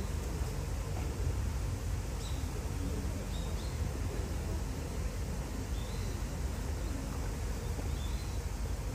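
Small bird giving short, high chirps every second or so over a steady low background rumble.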